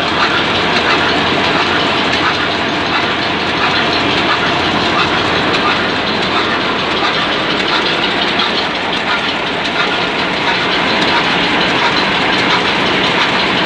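Ruston Hornsby class HRC stationary diesel engine running steadily, a loud continuous mechanical clatter.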